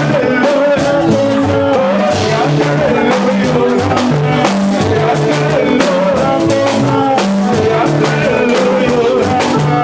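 Church worship music with a drum kit, a stepping bass line and a wavering sung or played melody over a steady beat.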